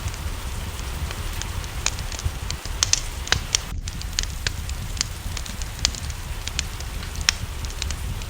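Wood fire crackling with irregular sharp pops, over the steady hiss of rain and a low rumble.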